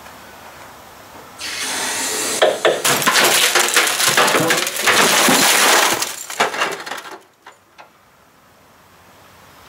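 A microwave oven being crushed under a 2-ton concrete block: its glass and casing break with dense cracking and crackling for about four seconds. This comes after a steady hiss that starts about a second and a half in, and a few faint ticks follow as it settles.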